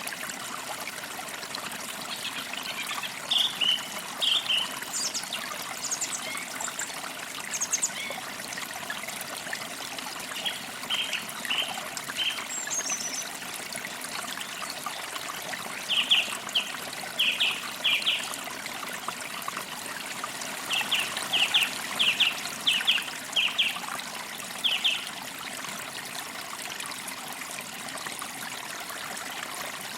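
A forest creek trickling steadily, with birds chirping over it in short runs of quick bright notes several times.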